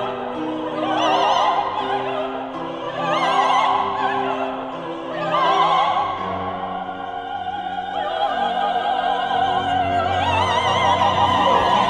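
Operatic singing: a high classical voice with wide vibrato sings rising phrases about every two seconds over sustained instrumental accompaniment, then holds a long high note near the end.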